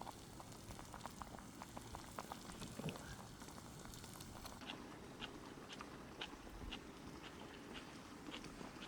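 Campfire of burning wood crackling: faint, irregular small pops and snaps over a low hiss.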